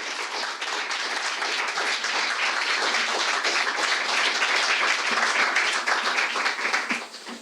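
An audience applauding with sustained clapping that fades out about seven seconds in.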